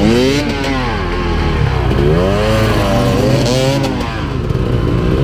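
Off-road dirt bike engine revved in short bursts, its pitch rising and falling about three times, while the bike is worked through a muddy forest rut under load.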